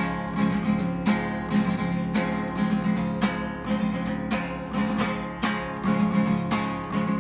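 Acoustic guitar strummed in a steady rhythm, about two strokes a second, with no singing over it.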